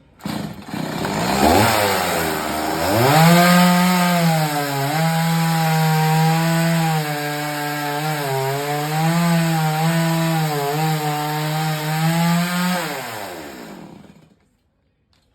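Chainsaw coming up to speed and cutting wood at high revs, its pitch dipping and recovering under load, then winding down and stopping near the end.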